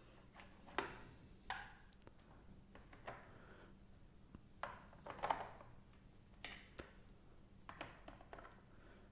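Faint, scattered clicks and taps of hard plastic pieces being handled: small containers of a plastic airplane-shaped plate set lifted out and set down, about eight knocks over several seconds.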